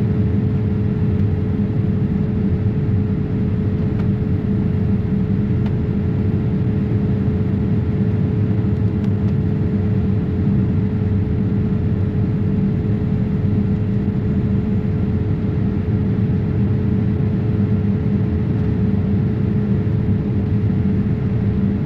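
Cabin noise of a Boeing 787-8 in flight: a steady low rumble of engines and airflow, with a steady hum on top.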